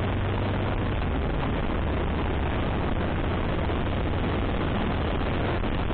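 Steady wind and road noise on a riding motorcycle's camera microphone, with a low, even engine drone underneath.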